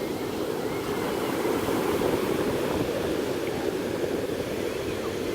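Ocean surf washing on a beach, a steady rush of water without distinct breaks.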